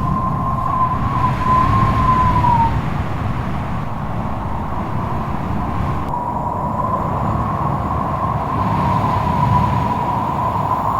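Strong wind with a low rumbling gust noise and a high howling whistle that wavers around one pitch. The whistle slides down and dies out in the first few seconds, then comes back about six seconds in and holds.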